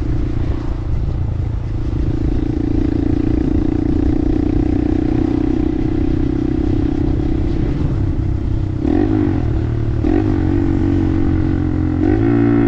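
Honda 125 cc single-cylinder motorcycle engine running steadily while riding, with a rumble of wind and road underneath. The engine pitch wavers briefly twice about nine and ten seconds in, then rises and gets louder near the end as the bike picks up speed.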